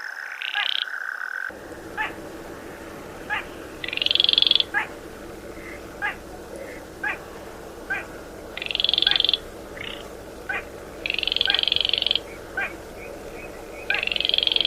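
Baillon's crake calling: a string of dry single ticks about once a second, broken every few seconds by a short buzzing rattle lasting about a second, the loudest sound in the recording.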